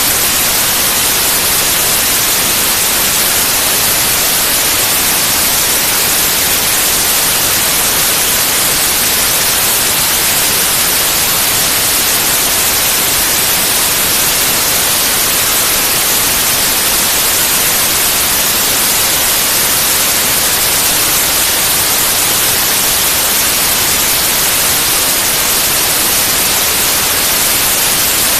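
Pure white noise: a loud, steady, unchanging hiss spread evenly across the frequencies.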